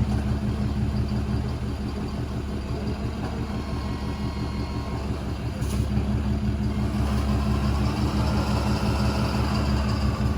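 Pickup truck engine running steadily at low revs, close by, with a single faint click about halfway through.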